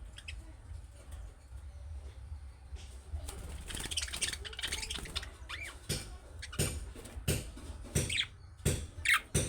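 Budgerigars warbling and chattering, then a run of sharp, short chirps roughly once a second from about six seconds in. A low hum runs underneath.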